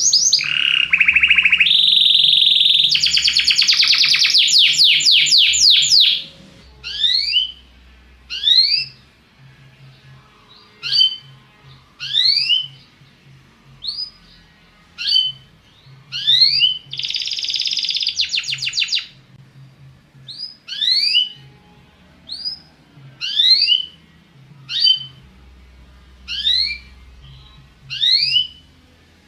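Belgian canary singing: fast rolling trills for the first six seconds or so, then single rising chirps about once a second, broken by another short trill near the middle.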